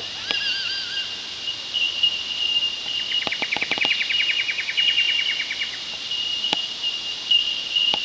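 Bell miners (bellbirds) giving a continuous chorus of high, ringing 'tink' calls that merge into a steady metallic chime, a sound likened to squealing brakes. Other birds join in: a wavering whistle about half a second in, and a rapid trill from about three seconds to nearly six. A single sharp click comes about six and a half seconds in.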